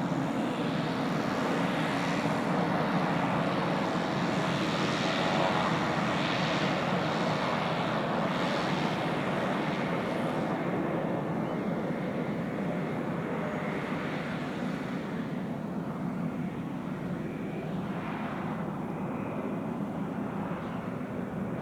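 Pilatus PC-12's single PT6A turboprop engine at takeoff power during the takeoff run and climb-out. It is loudest about five seconds in, then fades and grows duller as the aircraft climbs away.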